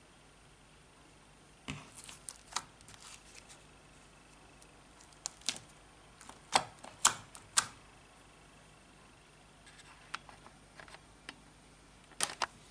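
Slime being squeezed and poked by hand, giving irregular sharp clicks and pops in three loose clusters with quiet gaps between.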